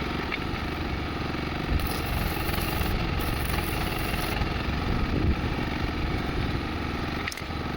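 An engine running steadily, with a brief dip in level near the end.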